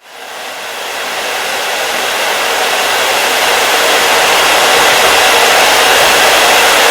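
Hair dryer running with a steady, even hiss, fading in from silence and growing louder over the first few seconds before holding level.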